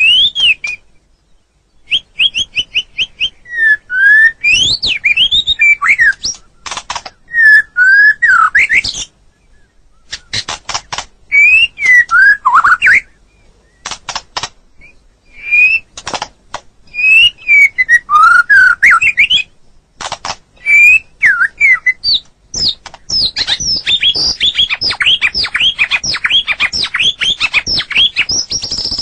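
White-rumped shama (murai batu) singing: a varied string of loud whistled phrases that slide up and down in pitch, broken by sharp clicking notes and short pauses. Near the end it runs into a fast, continuous series of quick sliding notes.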